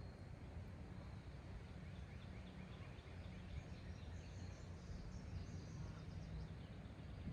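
Faint outdoor ambience of small birds chirping in quick, repeated high notes over a steady low rumble.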